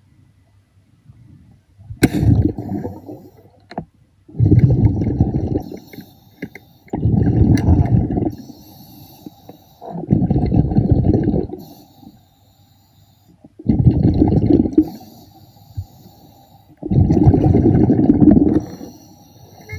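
A diver breathing underwater: bubbles rush out on each exhalation through the breathing regulator, in bursts of about a second and a half coming about every three seconds, with faint clicking between them.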